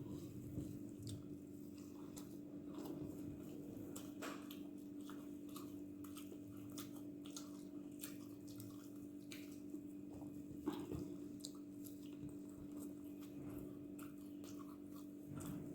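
Close-miked mouth sounds of someone eating dosa with chutney and curry: irregular wet clicks and smacks of chewing, over a steady low hum.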